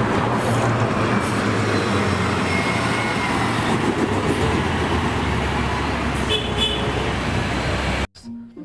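City bus sound effect: the engine runs steadily amid street traffic, with a short high beep about six and a half seconds in. The sound cuts off abruptly just before the end.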